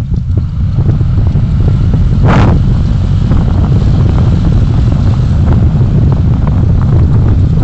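Road noise from a vehicle in motion, with heavy wind rumble on the microphone. A short hissing burst comes about two seconds in.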